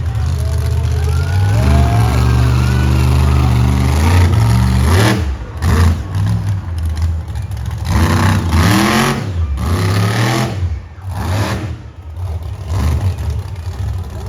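Monster truck engine running hard and being revved repeatedly. Its pitch climbs and falls several times, with sharp drops as the throttle is let off.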